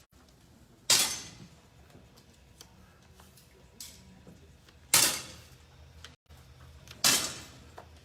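Three single air pistol shots, each a sharp crack with a short echoing tail, the second about four seconds after the first and the third about two seconds later.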